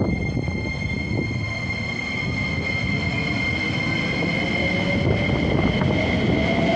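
JR West 125 series electric railcar pulling away: a steady high whine with a second motor tone rising slowly in pitch from about four seconds in as it gathers speed, over a low rumble.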